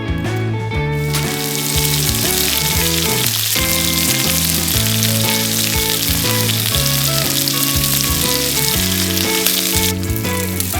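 Food sizzling in a frying pan, starting about a second in and stopping shortly before the end, over background guitar music.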